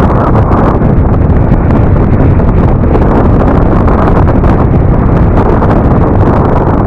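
Wind rushing over the microphone of a moving Yamaha NMAX scooter, with the scooter's engine and road noise underneath.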